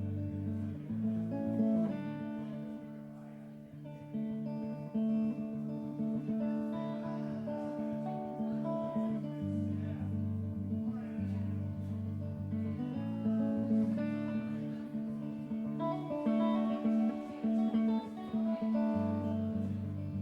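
Instrumental intro of a song: an acoustic guitar playing a chord progression, its low notes changing every few seconds under plucked higher notes.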